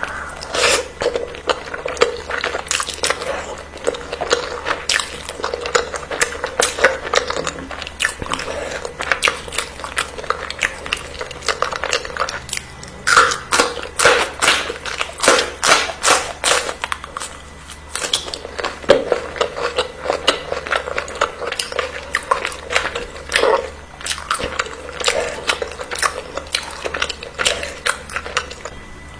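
A person chewing and biting food close to the microphone: a rapid, uneven run of wet clicks, busiest around the middle.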